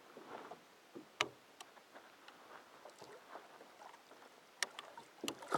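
Faint water lapping and sloshing against the hull of a small boat, with a few sharp knocks: one about a second in and two near the end.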